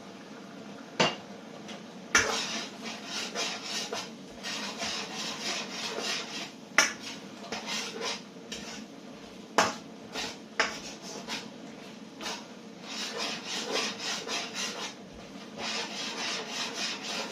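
Spatula scraping and stirring around a pan in quick repeated strokes, with a few sharp knocks against the pan, as a stir fry's brown sauce reduces.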